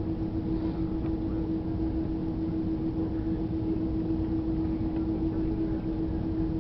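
Steady cabin noise of an Airbus A330 on the ground just after landing: a low rumble of engines and airframe with a steady hum running through it.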